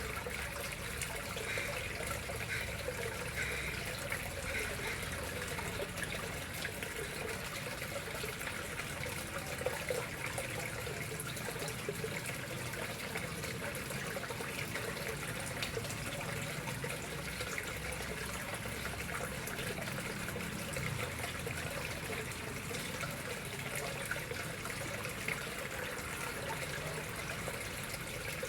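Water flowing steadily and trickling into a koi pond, an even, unbroken sound.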